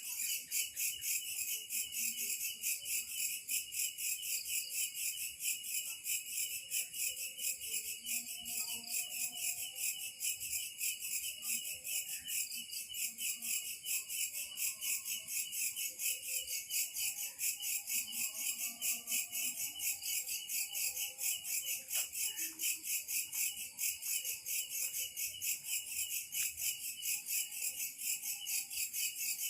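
A dense chorus of insects trilling nonstop in a rapid, even pulse, high-pitched. Faint short lower calls sound now and then beneath it.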